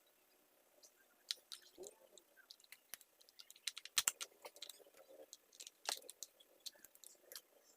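Irregular light clicks, taps and small knocks of hard parts and tools being handled while a mini chainsaw is cleaned, with the sharpest knocks about four and six seconds in.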